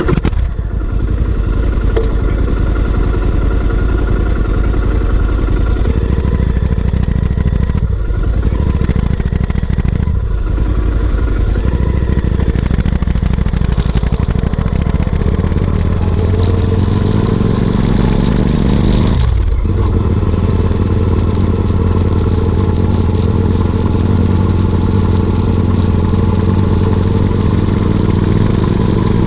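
Royal Enfield Interceptor 650's parallel-twin engine running through a Motowings aftermarket exhaust while being ridden. The note climbs in pitch and drops back with gear changes, with short dips about a third of the way in and again near two-thirds through.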